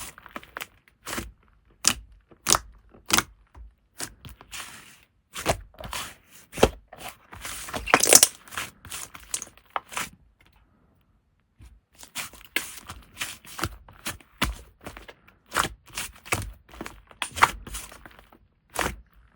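Slime being squeezed, poked and stretched by hand: a dense run of sharp pops and clicks, several a second, with a longer crackling stretch near the middle and a brief pause a little after it.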